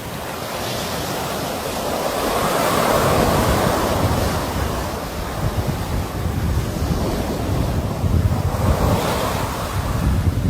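Sea waves breaking and washing up the shore, the surf swelling twice, about 3 seconds in and again near the end, with wind buffeting the microphone.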